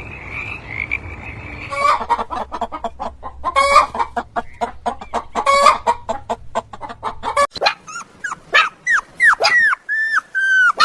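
Chickens clucking in quick runs of short clucks, then a series of short falling peeps, about three a second. In the first two seconds, before a cut, a frog's steady trilling croak runs on.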